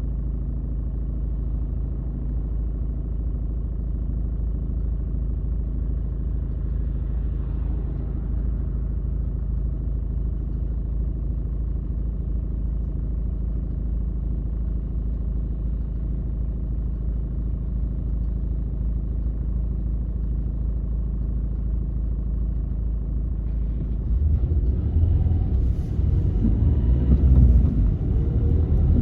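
Car driving through city streets: a steady low hum of engine and road noise with a few even engine tones. About 24 seconds in, a louder, rougher low rumble sets in.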